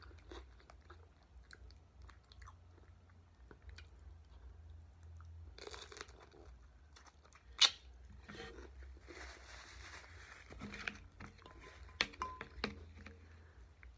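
A person biting into and chewing fresh whole cucumber: crisp crunches, with one sharp loud snap a little past halfway, then crunchy chewing.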